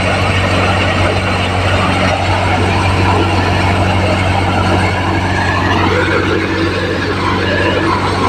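John Deere 5050D tractor's three-cylinder diesel engine running steadily under load, driving an NVT multicrop thresher threshing chickpeas: a constant low engine hum under a dense rushing of the thresher's drum and crop.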